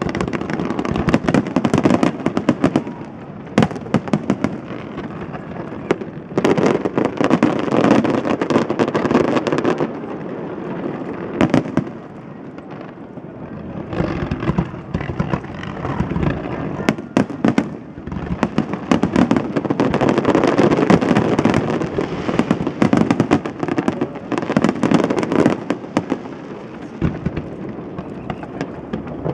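Aerial fireworks display: a dense barrage of shell bursts and crackling, coming in waves, with a quieter lull about ten to fourteen seconds in before the barrage builds again.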